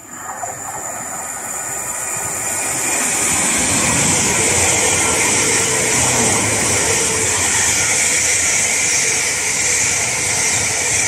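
Electric multiple-unit passenger train passing through the station at speed without stopping: a steady rushing hiss and wheel-on-rail rumble that swells as it approaches, stays loud through the middle while the coaches go by, and starts to fade at the end.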